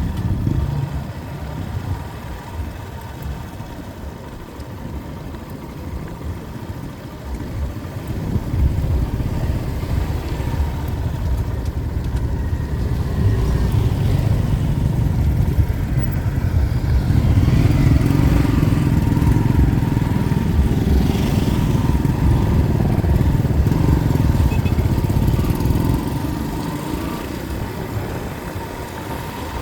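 Motor vehicle on the move: engine and road noise, rising about a third of the way in, loudest through the middle, then easing off near the end.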